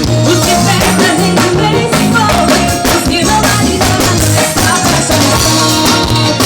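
A live band playing a song during a soundcheck, with a drum kit keeping a steady beat under a moving bass line.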